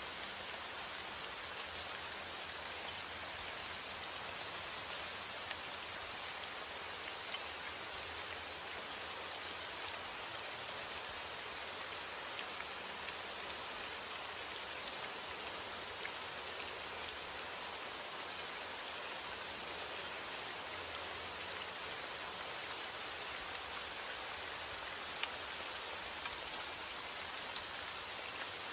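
Steady heavy rain: a dense, even hiss with countless small drop ticks.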